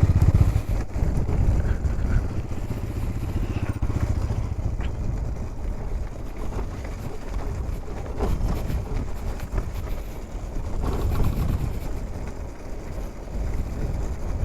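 Motorcycle on the move: steady engine and road rumble with wind noise, no clear pitch.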